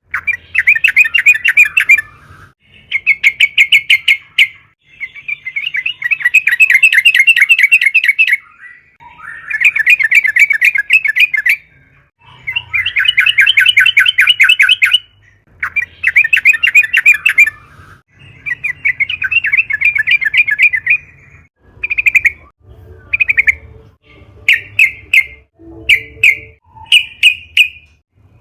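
Yellow-vented bulbul (trucukan) singing vigorously in repeated fast, bubbling, chattering phrases of one to three seconds with short pauses. The phrases become shorter and more clipped in the last part.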